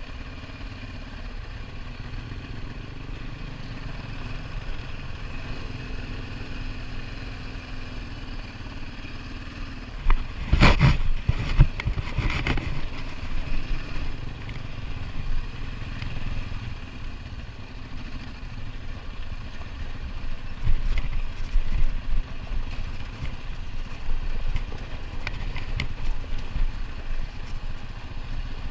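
ATV engine running steadily while riding a dirt trail, with a louder stretch of knocks and rattling from about ten to thirteen seconds in and a few more around twenty-one seconds.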